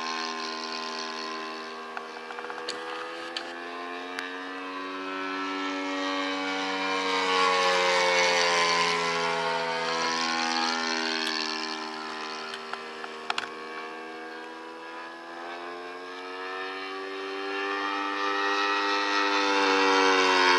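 Saito FG-14 four-stroke gasoline engine of an RC model airplane in flight, turning a three-bladed propeller. Its steady drone glides up and down in pitch and swells and fades as the plane passes, loudest about eight seconds in and again near the end.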